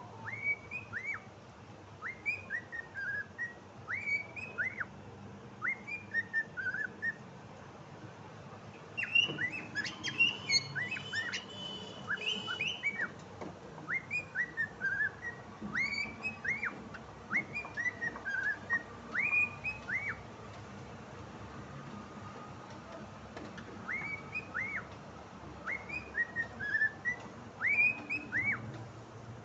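Cockatiel whistling a repeated tune in short phrases of quick rising and falling notes, with gaps between phrases. About a third of the way in, clicks and denser chirps join the whistling, and there is a pause of a few seconds past the middle.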